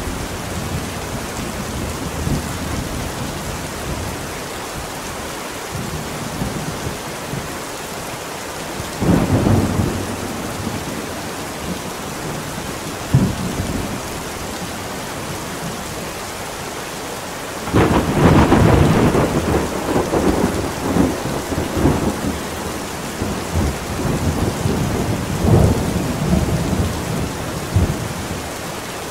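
Steady rain with thunderstorm thunder: a clap about nine seconds in, a short crack a few seconds later, then a long rolling peal starting a little past halfway that rumbles and cracks for about ten seconds.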